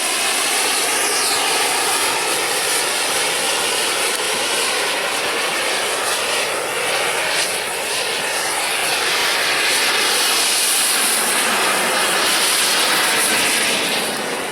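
Hand-held marine distress flare burning with a loud, steady hiss, starting to die down near the end as it burns out.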